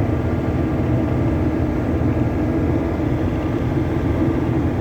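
Cabin sound of a loaded GAZelle van with a Cummins diesel engine running steadily under load on the road, the engine drone mixed with steady road and wind noise.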